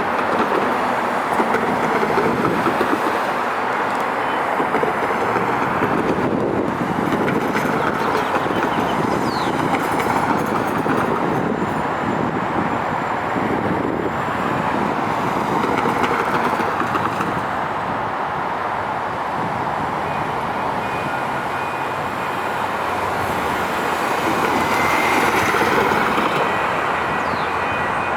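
Light rail train running along the track: the steady, swelling and easing noise of its wheels on the rails.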